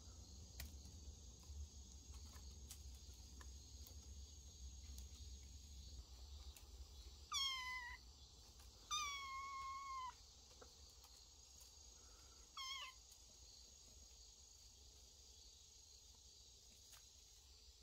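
A kitten meowing three times, high-pitched: a short call, a longer drawn-out one, then a brief one.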